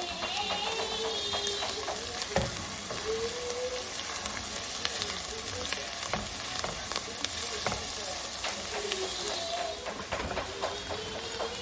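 Onions, celery and carrots sizzling in melted butter in a cast iron pot, with the clicks and scrapes of a utensil stirring them. A faint wavering tone runs underneath.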